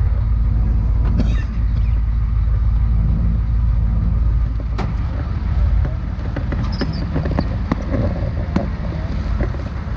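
Motor vehicle on the move: a steady low rumble of engine and road noise, with a few brief clicks over it.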